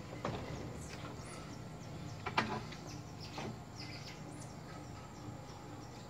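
Birds chirping with many short, high, quick sweeping calls over a steady low background. Three sharp knocks break in, the loudest about two and a half seconds in.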